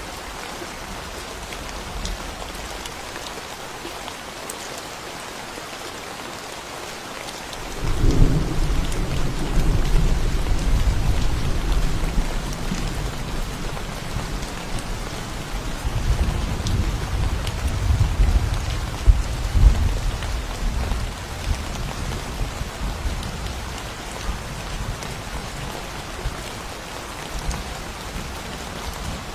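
Steady rain falling, with a clap of thunder breaking in sharply about a quarter of the way through and rolling on as a low rumble that swells a second time before fading away.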